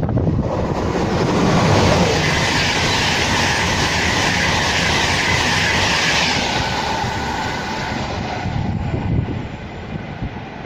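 A train passing close by at speed: loud rail and wheel noise with a steady high whine, swelling to its loudest about two seconds in, then easing off over the last few seconds.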